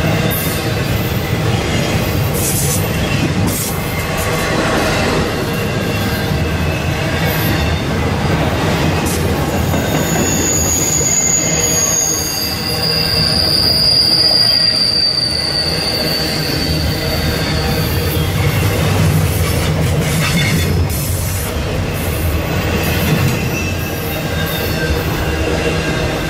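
Intermodal freight train's container and trailer cars rolling past: a steady rumble and rattle of steel wheels on rail. A high wheel squeal sets in about ten seconds in, drops to a lower pitch and fades after several seconds.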